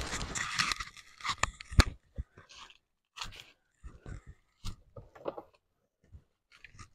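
Rustling and crunching of dry grass and dead leaves, dense for the first two seconds, then footsteps in sandals as separate, irregular crunches. No engine is running.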